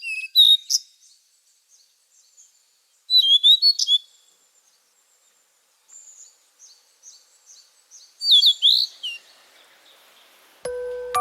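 A wild songbird singing: three loud phrases of quick, varied whistled notes, one near the start, one about three seconds in and one about eight seconds in, with softer repeated high notes between the last two.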